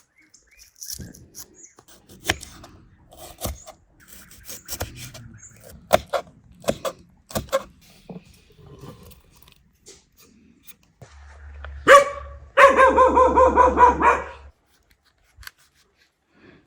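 Scattered short knocks and clinks, then about twelve seconds in a loud animal call: one sharp call followed by a rapid pulsing series lasting about two seconds.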